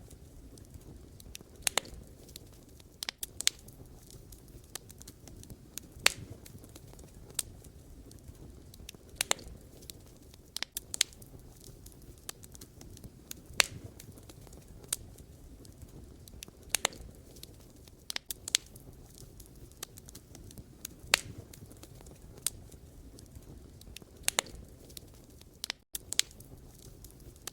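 Wood fire crackling: irregular sharp pops and snaps of burning logs over a low, steady rush of flame. The sound cuts out for an instant near the end.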